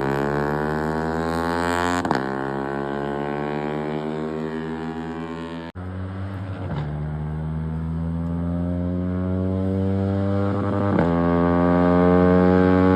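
Yamaha R15 sport bike's single-cylinder engine pulling hard under acceleration through the gears, its exhaust note climbing in pitch in each gear and dipping briefly at each upshift, about three times. There is a sudden break in the sound near the middle.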